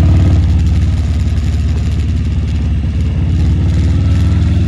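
Harley-Davidson V-twin motorcycle engine idling loudly and steadily, its rapid, even firing pulses heard as a deep rumble.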